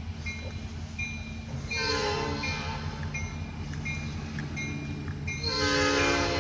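Diesel freight locomotive sounding its horn twice, a short blast about two seconds in and a louder one near the end, over the steady low rumble of the engine. A grade-crossing bell dings at an even pace throughout.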